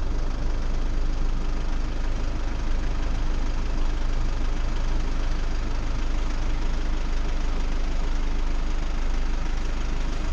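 Motorhome engine running, heard from inside the cab as a steady low rumble with an even hiss over it.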